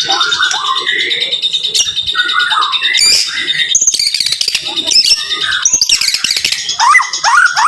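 White-rumped shama (murai batu) singing a dense, rapid-fire run of chirps and whistles, ending in a string of quick rising notes.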